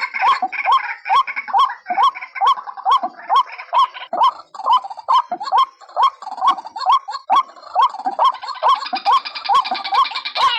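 White-breasted waterhen lure calls: a steady rhythmic series of hooked croaking notes, about two to three a second, overlaid with higher chattering calls that grow denser near the end.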